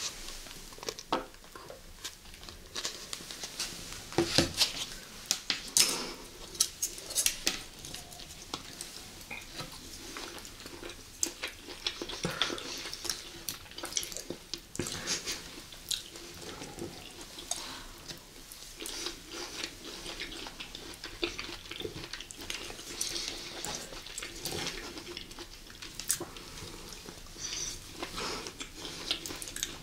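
Close-miked eating sounds: chewing and mouth noises with many scattered sharp clicks, as sweet corn kernels are spooned up with a plastic spoon and eaten.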